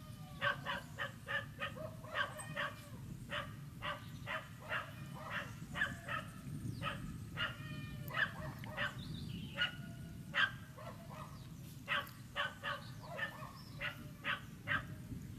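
A dog barking over and over in short, sharp barks, a few tenths of a second to a second apart, over a steady low rumble.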